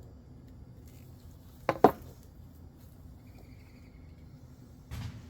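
Two quick sharp knocks of PVC pipe being handled during assembly, about a second and a half in, followed near the end by a softer short rustle.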